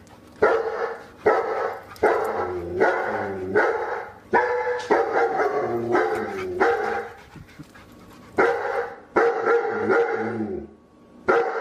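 Dog barking in a rapid run of loud barks, with a pause of about a second some seven seconds in and another near the end.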